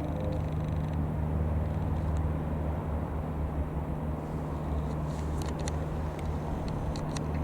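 Steady low drone of a Cessna 150 Aerobat light aircraft's engine and propeller flying over. A few sharp clicks come near the end.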